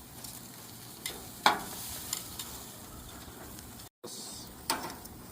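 Goat meat and chicken skewers sizzling on a very hot grill, with a few sharp clacks as the meat is handled. The loudest clack comes about a second and a half in.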